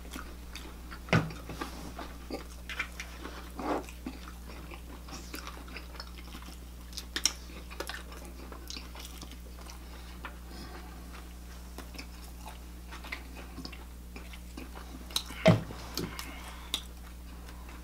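Close-miked eating: scattered chewing, biting and small wet mouth clicks as a shawarma wrap is eaten, over a low steady hum. A single louder knock comes about fifteen seconds in.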